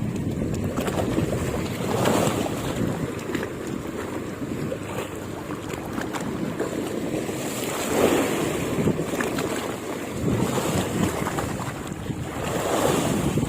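Wind buffeting the microphone over the wash of the sea, surging every few seconds.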